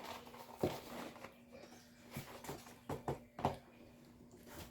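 Scattered soft clicks and rustles of eating and handling cardboard McNugget boxes at a table, over a faint steady hum.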